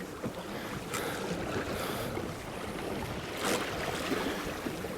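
Wind buffeting the microphone and choppy wind waves washing against a kayak's hull, with a couple of sharper slaps of water.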